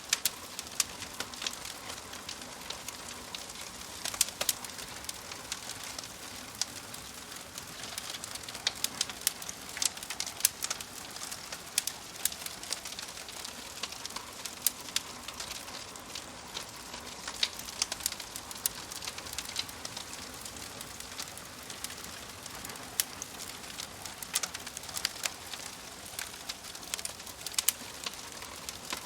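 Wood fire in a fireplace crackling: irregular sharp pops and snaps from the burning logs over a steady hiss.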